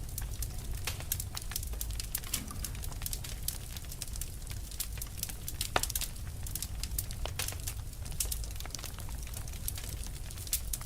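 Wood fire burning: dense, irregular crackles and pops over a low steady rumble, with one louder pop about halfway through.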